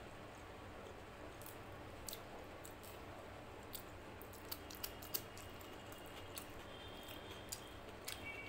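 Eating sounds: a mouthful of rice and mutton curry being chewed, with scattered soft wet clicks, and fingers squishing rice into curry on a plate.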